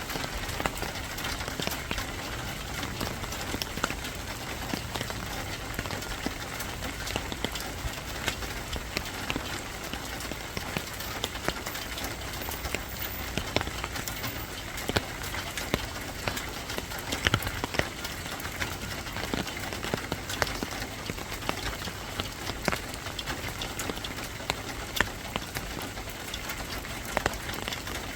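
Steady rain falling, with many separate drops tapping on a surface.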